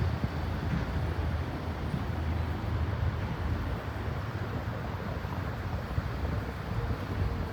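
Steady low rumble of jet airliner engines, with wind buffeting the microphone.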